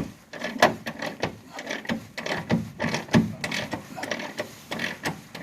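Hand tools on a car's rear shock absorber mounting: irregular metallic clicks and knocks as the shock's nut is worked loose.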